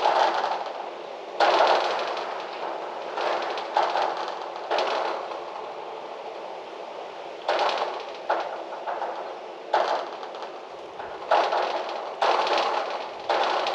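Gusty wind coming in sudden blasts every second or two, each one rushing up abruptly and dying away over about a second.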